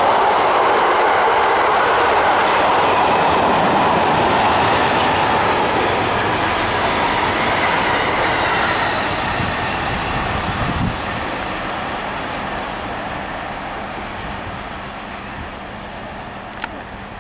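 A freight train's wagons, car carriers and empty stake wagons, rolling past on the rails in a steady rumble that fades as the train moves off. A single sharp click comes near the end.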